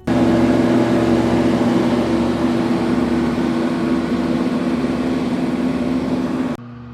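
Large industrial flattening planer (a combined facer and planer) running under load, a steady loud machine noise with a strong hum and hiss. Near the end the level drops sharply to a quieter steady hum.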